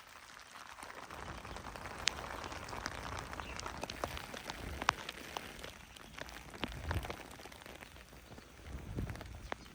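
Rain falling steadily, with many individual drops landing as sharp taps.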